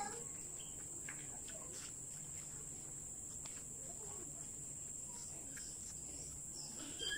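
Steady, unbroken high-pitched drone of insects, the evening chorus of tropical crickets or cicadas.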